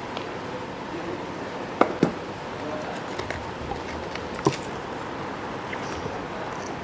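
Steady background hiss with a few light clicks and knocks, the clearest about two seconds in and again past four seconds, from a phone's box contents and accessories being handled during unboxing.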